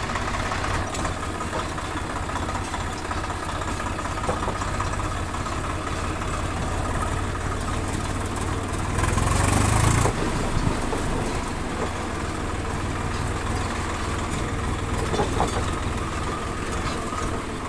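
Tractor engine running steadily with a low hum, with a brief louder rush about halfway through.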